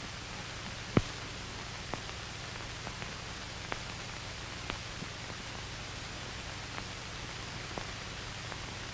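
Steady hiss and low hum of an old film soundtrack, with scattered faint clicks and pops, a sharper one about a second in.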